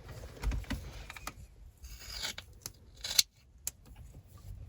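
Scissors snipping felt tape: several short cuts and clicks of the blades, with a brief rasping cut about two seconds in.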